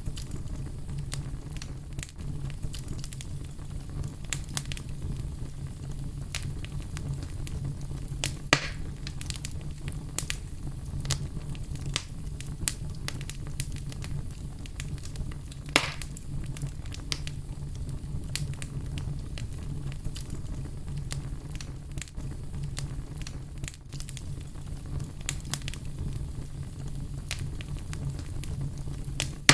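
Fire crackling steadily with frequent small pops over a low steady rumble, and two louder pops about a third and halfway through.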